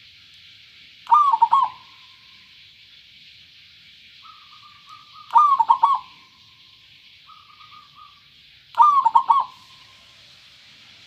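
Zebra dove (perkutut) singing: three short phrases of quick rolling cooing notes, each led in twice by a softer run of notes. A steady high hiss runs underneath.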